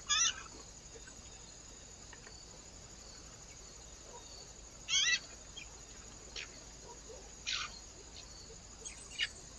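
Small birds giving short, rapid chattering calls, about five in all, each under half a second and a few seconds apart, over a faint steady hiss.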